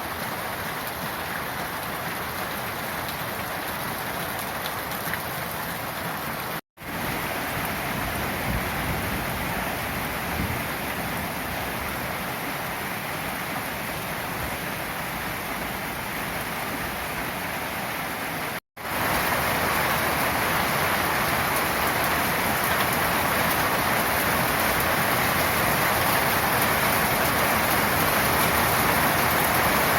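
Heavy summer downpour: steady rain hissing down. It cuts out for a moment twice and comes back heavier and louder for the last third.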